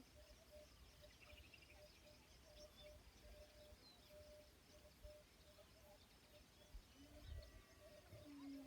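Faint natural ambience with small birds chirping here and there, over a soft note that repeats about twice a second.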